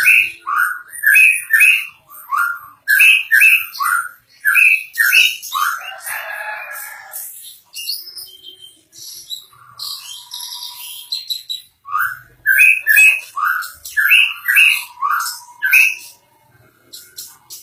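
White-rumped shama (murai batu) singing vigorously: runs of loud, clear whistled notes, with a harsh rasping note partway through and a quieter stretch of varied notes in the middle before the loud whistles return.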